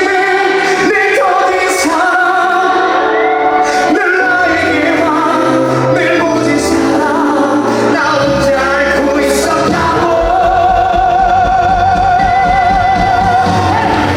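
Live pop-rock band music with a singing voice over it, recorded in a concert hall. Near the end one long sung note is held with vibrato.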